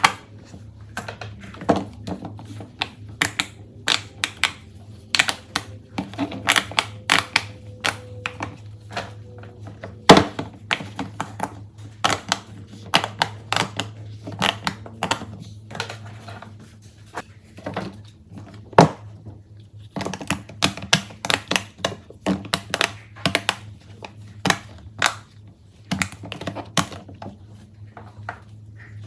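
Fidget toys being handled and pressed, giving a long run of irregular sharp clicks and pops, sometimes in quick runs. One click about ten seconds in is louder than the rest. A faint steady low hum sits underneath.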